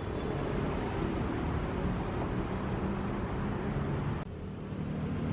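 Steady low rumbling background noise, dropping suddenly about four seconds in.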